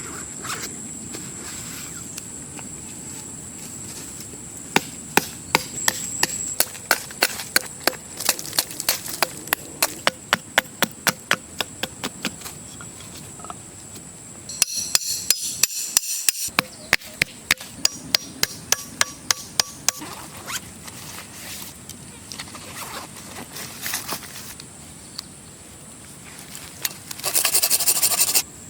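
Hammer blows on wood in quick even runs of about four strikes a second, with pauses and a few scattered knocks between them.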